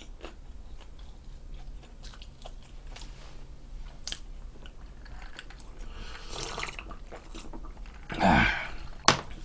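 Close-miked chewing of pizza: soft wet mouth clicks and munching. About eight seconds in comes a louder gulping sound as cola is drunk from a glass.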